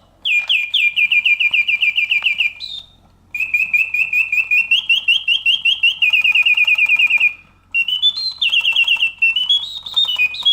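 Vintage Reuge singing bird cage automaton's mechanical bird singing, its bellows-driven whistle giving fast trills of repeated falling chirps, about seven a second. The song comes in phrases of one to three seconds with short pauses, shifting in pitch from phrase to phrase.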